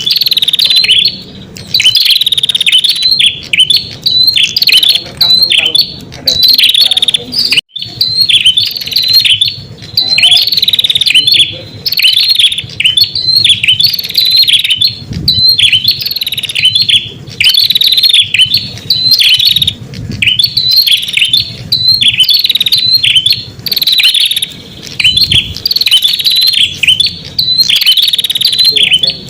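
Prenjak songbird calling: high, sharp chirping phrases repeated back to back about once a second, with brief pauses, as used to lure wild prenjak.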